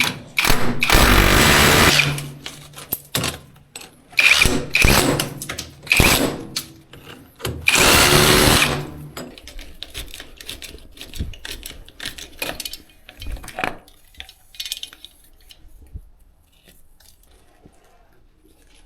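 A handheld electric power tool runs in four short bursts over the first nine seconds or so, followed by scattered knocks and clicks that die away. It is work on the plumbing after the leaking hot-water threaded elbow fitting was judged beyond repair and due for replacement.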